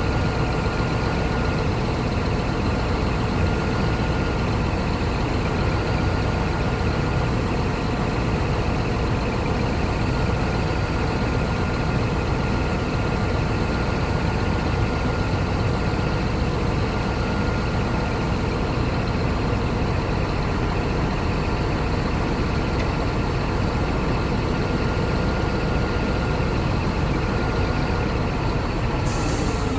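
Scania R480 truck's diesel engine idling steadily, with a thin steady whine over the low running hum.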